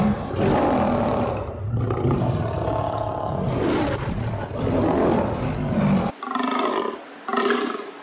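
Tiger roaring and growling, a deep, continuous sound for about six seconds. It then breaks off abruptly into shorter, higher calls spaced about a second apart.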